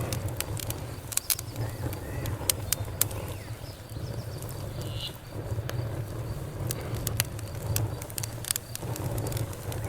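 Campfire burning, wood crackling with many sharp pops at irregular intervals over a low steady rumble.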